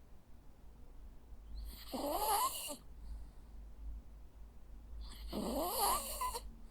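Jack Russell terrier snoring in its sleep: two snores about three and a half seconds apart, each a little over a second long, with a wavering pitch.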